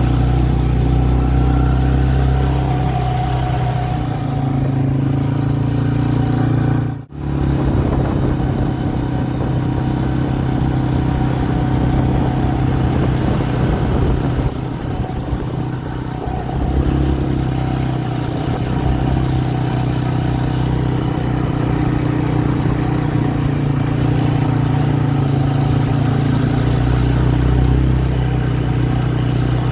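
Motor vehicle engine running steadily, with a brief dropout about seven seconds in.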